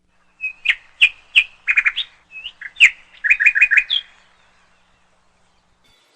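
Songbird chirping: a quick run of short, sharp chirps and whistles, some in rapid trills, lasting about three and a half seconds before it stops.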